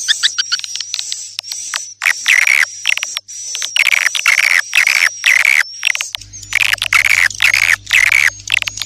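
Swiftlet lure call, likely edible-nest swiftlet: fast high-pitched chirping and twittering that turns into a run of repeated buzzy calls. A steady low hum joins about six seconds in.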